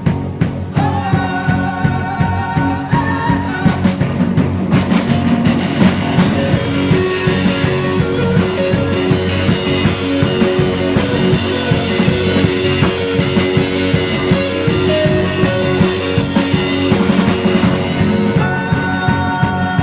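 Live rock band playing an instrumental passage: drum kit keeping a steady beat under guitars and held sustained notes, with a psychedelic rock sound.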